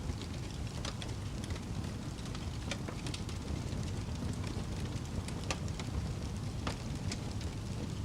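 Campfire burning with a steady low rumble and many small sharp crackles and pops from the burning wood.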